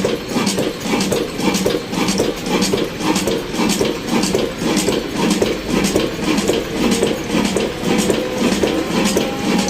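Engine running steadily with a regular pulsing beat, swelling a little more than once a second over a constant mechanical clatter.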